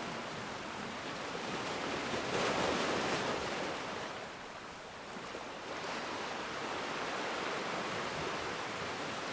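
Ocean waves washing onto a shore, a steady rush of surf that swells to a louder break a couple of seconds in, ebbs briefly, then builds again.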